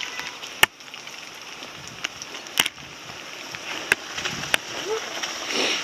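Steady hiss of rain, with a few sharp taps scattered through it.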